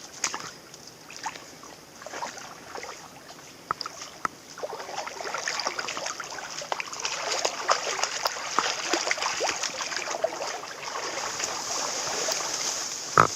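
A small taiga river running over stones, with irregular splashing and sloshing that grows busier about halfway through, and one sharp knock just before the end.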